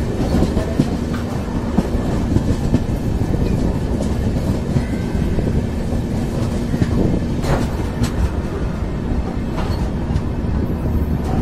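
Passenger train running on the track, heard from alongside the moving coach: a continuous rumble of wheels on rails with a steady hum underneath. A few sharper clacks over rail joints stand out, the loudest about seven and a half seconds in.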